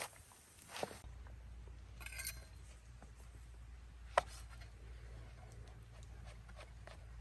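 A few scattered sharp clicks and clinks, the loudest about four seconds in, with a brief rustle around two seconds, over a low steady hum.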